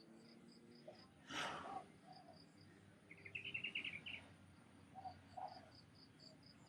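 Faint bird chirping: a short high chirp repeated about four times a second, with a brief rapid trill about three seconds in. A soft whoosh comes about a second and a half in.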